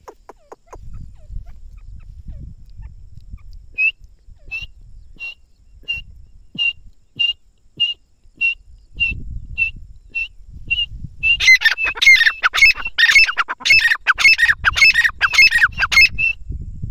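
A teetar (francolin) calling. Single short high notes repeat at an even pace, then about 11 seconds in they build into a loud, rapid run of calls that lasts about five seconds and stops abruptly. A low rumble comes and goes underneath.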